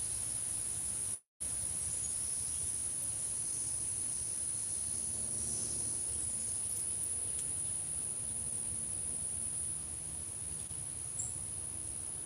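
Steady high-pitched drone of insects, continuous over a low background rumble, cut off briefly about a second in.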